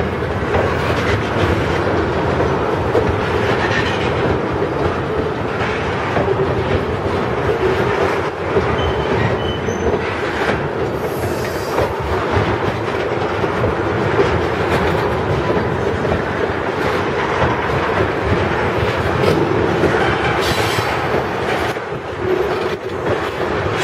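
Freight train tank cars rolling past close by: a steady rumble of steel wheels on rail, with a run of clicks as wheels cross the rail joints.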